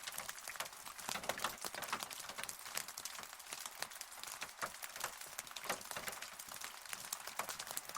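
Rain falling, with many individual drops tapping irregularly on a surface over a steady hiss.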